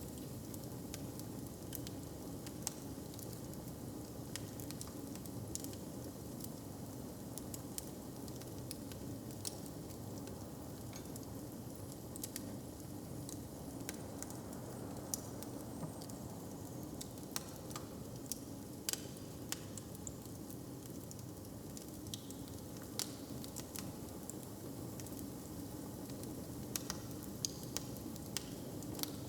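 Wood fire crackling in a hearth: irregular sharp pops and snaps over a steady low rumble.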